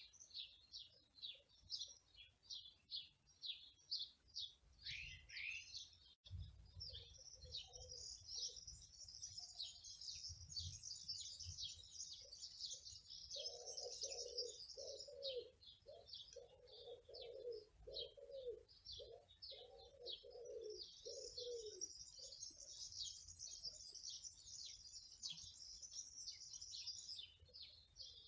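Small birds chirping and twittering in quick high notes, with a dove or pigeon cooing in a run of low notes through the middle.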